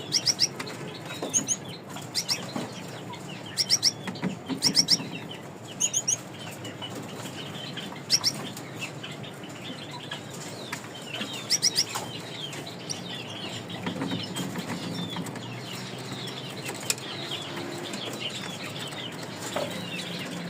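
Gouldian finches chirping: sharp high chirps in quick clusters of two to four, mostly in the first half, over continual soft twittering.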